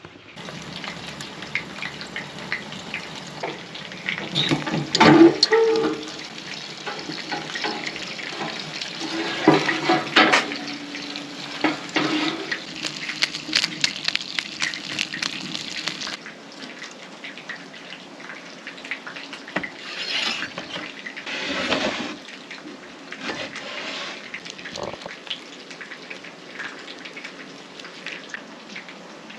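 Water running and splashing, with louder clattering spells about five and ten seconds in and again near twenty seconds.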